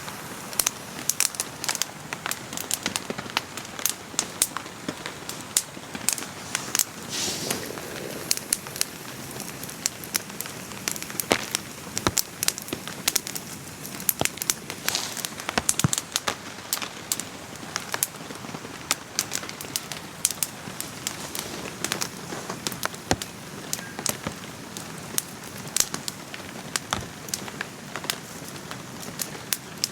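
Campfire crackling, with frequent sharp irregular pops, over the steady hiss of rain falling.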